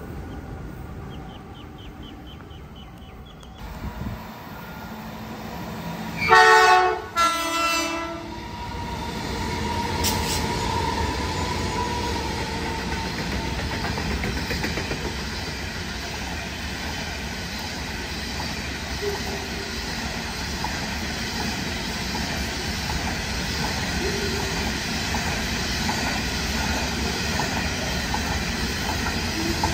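Diesel locomotive horn blows twice, a long blast and then a shorter one, as a Hunter Valley coal train approaches through the station. Then the locomotives and a long string of coal hopper wagons roll past with a steady rumble and rhythmic wheel clatter.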